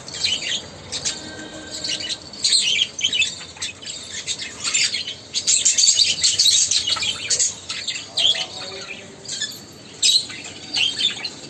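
A group of pet birds chirping and squawking together in a dense, overlapping chatter of short, high calls.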